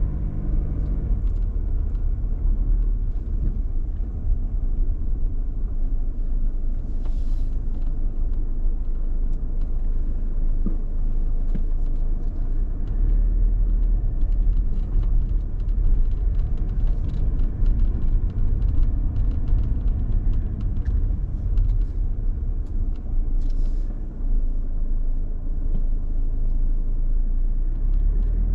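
Car driving slowly: a steady low engine and road rumble, with scattered small ticks and knocks.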